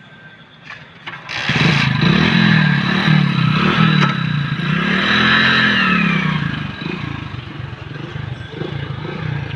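Motorcycle engine revving up and down under load as the bike is ridden through water, the throttle held open so the engine doesn't stall. A sudden loud rush of noise comes in about a second and a half in, and the revs ease off after about six seconds.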